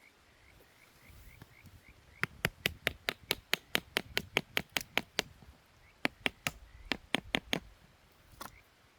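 Two runs of sharp taps, about four a second. The first lasts about three seconds and the second about a second and a half, with one more tap near the end.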